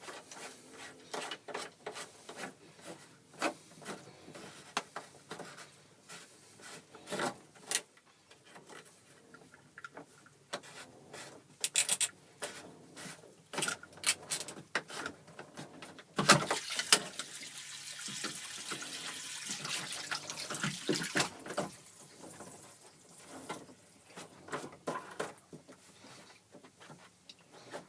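Clicks, knocks and rubbing from a boat's plastic speed-log paddlewheel sensor and its through-hull housing being handled and refitted. About two-thirds of the way in there is a hiss of water lasting about five seconds, typical of seawater coming in through the open through-hull while the sensor goes back in.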